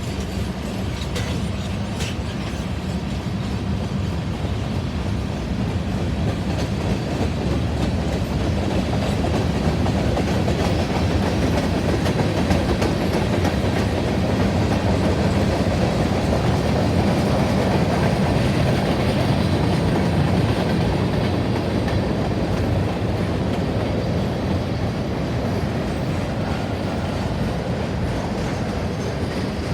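Freight train rolling past: a steady rumble of steel wheels on rail that grows louder toward the middle and eases off near the end.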